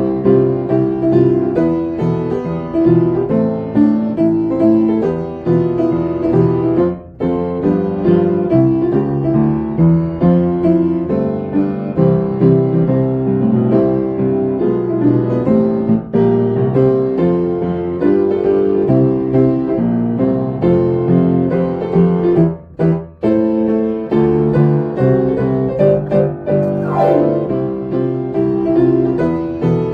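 Solo piano playing a song melody with its accompaniment, briefly breaking off twice, and with a glissando sweep across the keys near the end.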